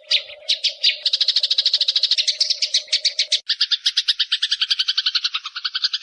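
Eurasian tree sparrows fighting: a fast, harsh chatter of short notes, about eight to ten a second. A little past halfway the chatter changes to a denser run that reaches lower, and a faint steady hum lies under the first half.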